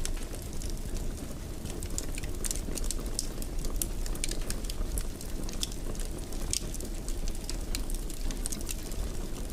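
Wood fire crackling in a fireplace: irregular sharp pops and crackles, several a second, over a steady low rumble of the flames.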